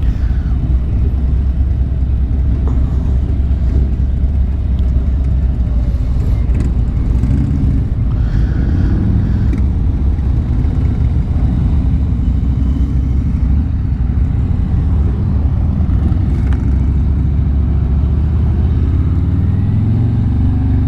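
Harley-Davidson V-twin motorcycle engine and exhaust running steadily while riding. Its pitch rises near the end as the bike accelerates.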